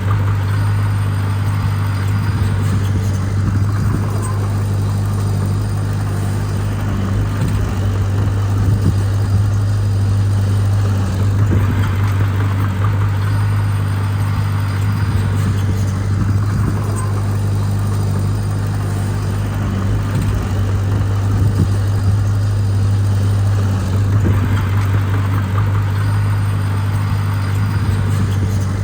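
Heavy diesel engine running steadily under a constant low drone, with a rougher, noisier working sound that swells and eases every several seconds.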